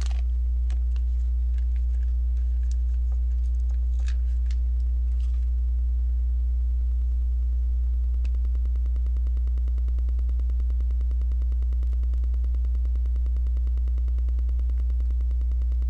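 Loud steady electrical mains hum on the recording, with a few faint plastic clicks of Lego bricks being handled in the first few seconds.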